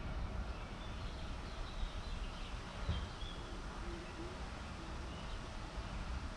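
Faint birds chirping now and then over a low, unsteady rumble with a light hiss.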